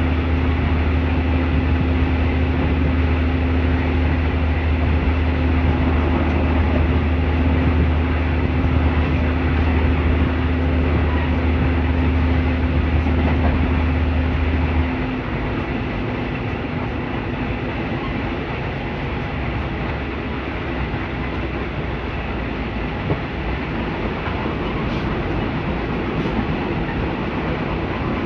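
Passenger train heard from inside its carriage: steady running noise on the rails. A deep low drone stops about halfway through, and the running noise is a little quieter after it.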